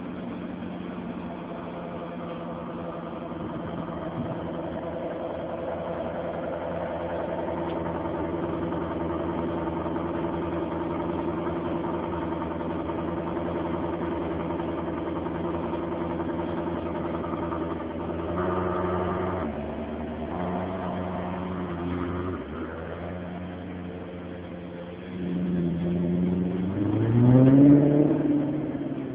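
Maserati GranTurismo S V8 engine and exhaust running steadily for a long stretch, with a couple of brief changes in note. Near the end it revs up, rising in pitch to its loudest, then falls back.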